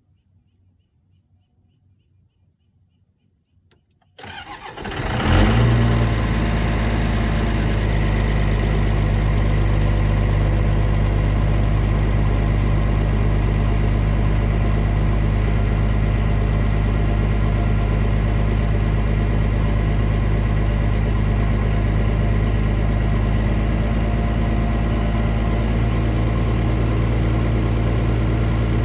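High-mileage 1998 Cummins 12-valve 5.9-litre inline-six diesel cold-started at about −2 °C. About four seconds in it cranks briefly, catches about a second later and settles into a steady idle.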